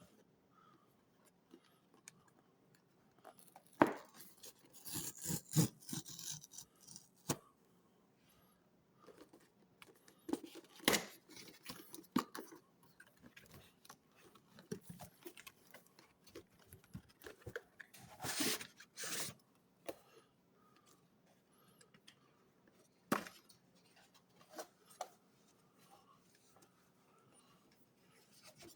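Handling and unwrapping packaging: scattered clicks and taps, with two spells of rustling and tearing, one about a sixth of the way in and one about two thirds of the way through.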